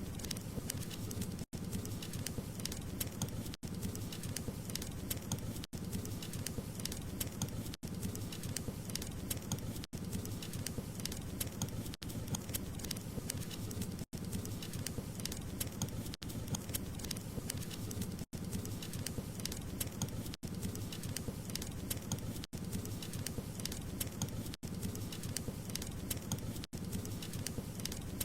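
Wood fire crackling and popping steadily, with many small sharp snaps over a low rushing bed. The sound drops out very briefly about every two seconds.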